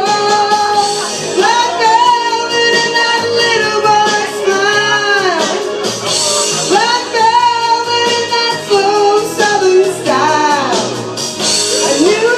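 A woman singing long held, sliding notes over instrumental accompaniment.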